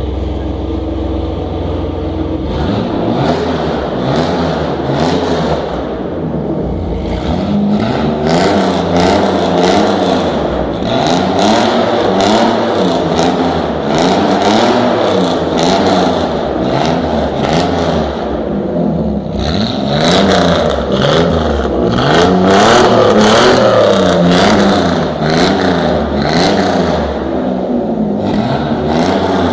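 A car engine revved over and over in quick blips through its exhaust, the pitch swinging up and down more than once a second, with sharp crackles through it.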